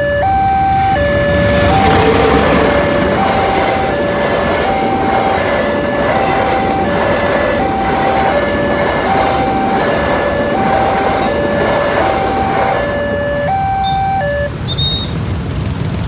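Railway level-crossing warning alarm sounding a two-tone electronic signal, alternating high and low about every three-quarters of a second, over the loud rumble of a passing train. The alarm stops about fourteen and a half seconds in.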